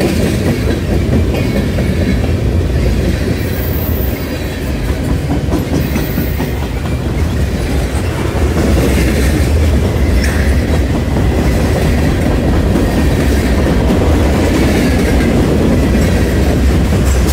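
CSX freight train's cars rolling past at close range: a steady low rumble, with wheels clicking over the rail joints.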